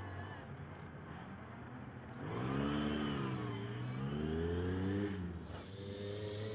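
Lancia Stratos rally car engine revving. After about two seconds of low hum, the engine note climbs, dips, climbs again, then drops back near the end to a steadier note.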